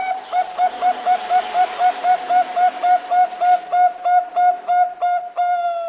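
Zebra dove (Bangkok-type perkutut) calling: a fast run of short cooing notes, about four a second, quickening slightly near the end and closing on one longer drawn-out note.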